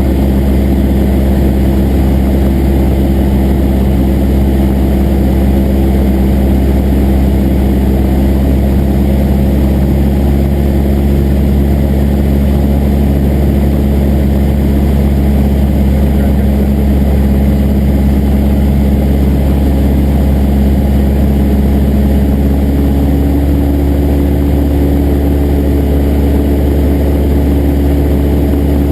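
Cessna 172's piston engine and propeller running with a steady, loud drone. Near the end the pitch of the drone shifts up slightly.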